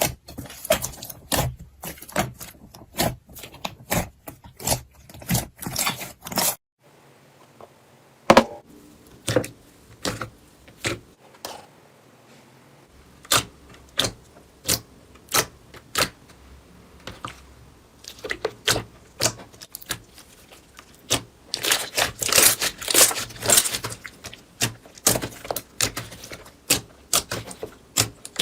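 Slime being squeezed and pressed by hand, making quick sticky clicks and pops. The clicking thins out suddenly about a quarter of the way in, then turns into a dense crackle a little past three quarters of the way through.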